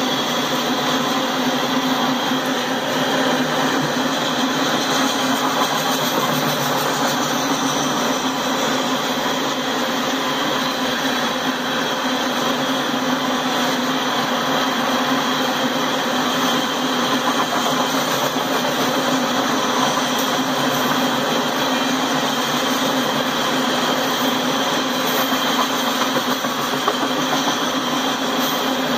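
Loaded-train rolling noise of freight covered hopper cars passing on the rails: a steady, unbroken rumble of steel wheels on track.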